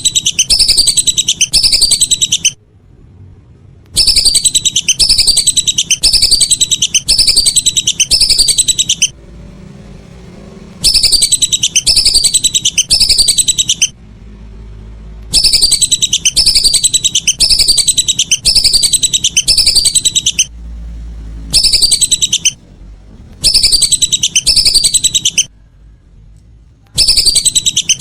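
Whistling duck calls: loud, high whistles that fall in pitch, about two a second, in bouts of two to five seconds with short pauses between.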